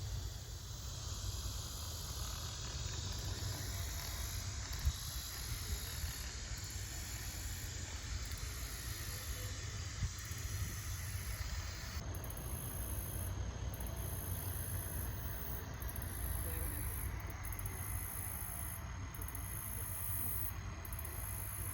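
Quiet outdoor ambience: an even high hiss over a steady low rumble. The sound changes abruptly about halfway through.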